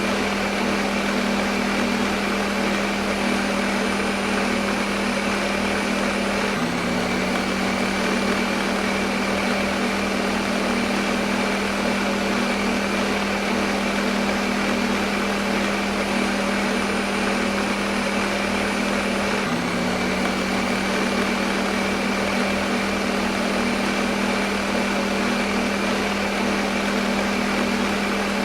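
Electric kitchen blender motor running continuously: a steady whirring hum over even noise, with a brief dip in pitch about six and a half seconds in and again near twenty seconds.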